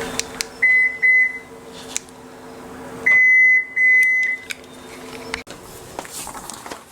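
Electronic beeps at one steady, high pitch: two short beeps about a second in, then two longer beeps around three to four seconds, over a steady low hum that cuts off with a click about five and a half seconds in.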